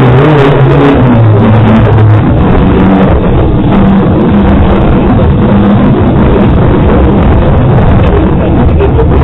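Rally car engine heard loud from inside the stripped cabin while driving a special stage, the revs rising and falling over the first two seconds, then holding fairly steady.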